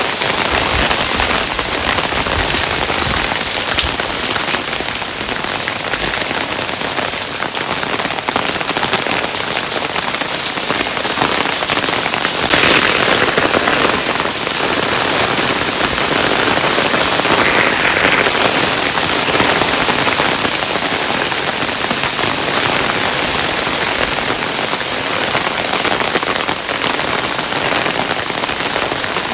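Hailstones falling steadily, a dense, even patter and crackle of many small impacts, swelling a little about halfway through.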